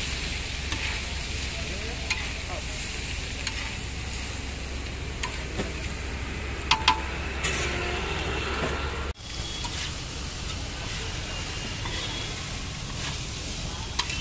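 Paneer cubes sizzling on a large flat griddle (tawa) while a metal spatula scrapes and tosses them, with sharp clinks of the spatula against the griddle now and then, two loud ones about seven seconds in.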